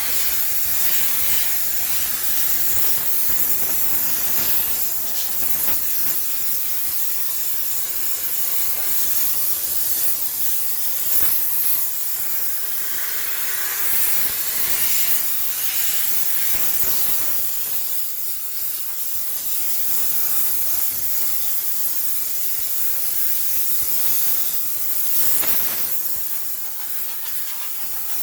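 High-pressure steam cleaner jetting steam with a steady, loud hiss that wavers in strength, used to steam-sterilize a laundromat washing machine.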